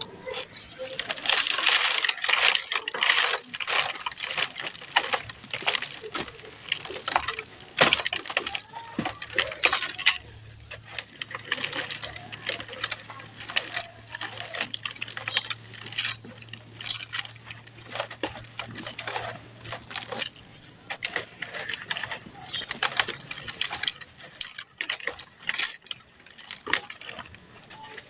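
Dry, crumbly blocks being crushed and broken apart, with dense, irregular crunching and crackling. It is loudest in the first few seconds and comes in repeated bursts after that.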